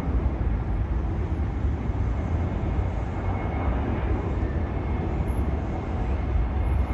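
Jet airliner engines making a steady, deep rumble with a faint whine above it.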